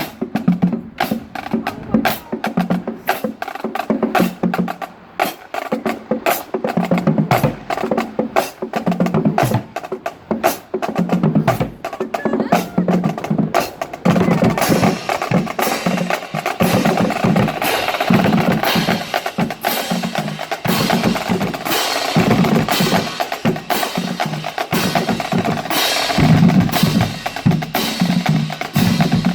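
Marching band drumline playing a cadence: crisp snare strikes and rim clicks over low bass drum hits. About halfway through it grows denser and brighter.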